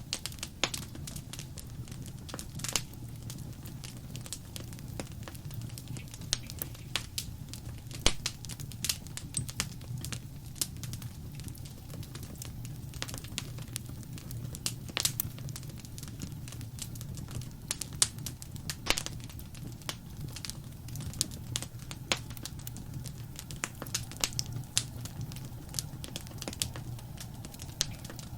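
Wood fire in a fireplace crackling: irregular sharp pops and snaps over a steady low rumble. A few louder pops stand out, about 8, 15 and 19 seconds in.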